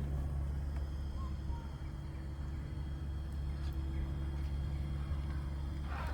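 Electric drive motor and gearbox of an Axial SCX6 Honcho RC rock crawler running at a steady speed in second gear, a low even hum with a thin steady whine.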